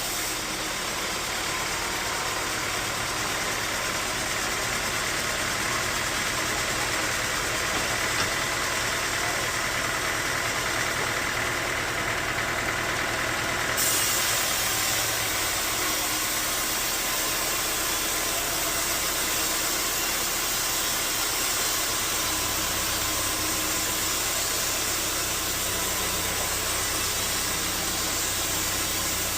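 Bandsaw sawmill running with a steady mechanical drone. About halfway through, the sound turns hissier and brighter.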